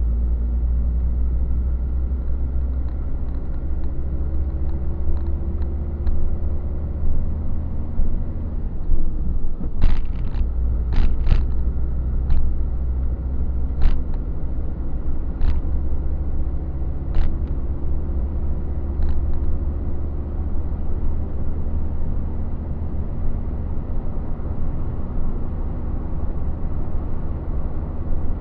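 A truck engine droning while driving, heard from inside the cab: a steady deep rumble whose note rises gradually twice. A handful of sharp knocks or rattles come in the middle.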